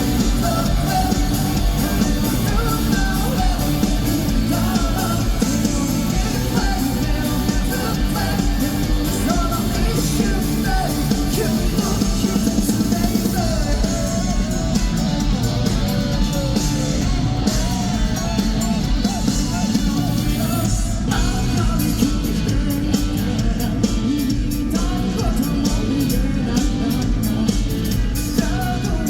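Live rock band performing a song, with a lead singer's vocal over the band.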